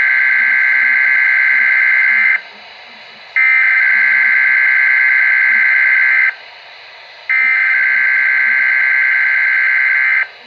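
Three bursts of weather-radio alert header data, the buzzing digital tones that open an alert. Each burst lasts about three seconds, with a one-second gap between them.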